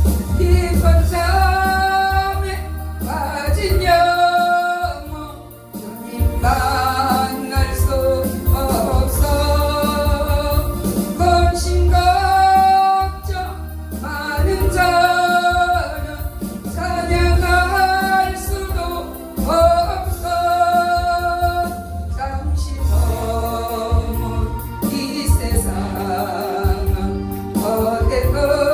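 A gospel song sung by a singer over an accompaniment with a steady, heavy bass. The voice holds long notes with vibrato, phrase after phrase.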